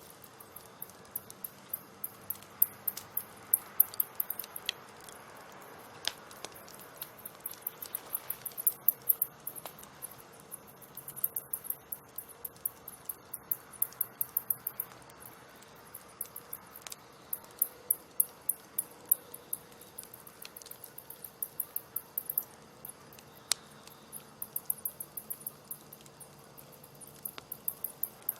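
Wood fire crackling, with irregular sharp pops and snaps coming in quick clusters over a low hiss.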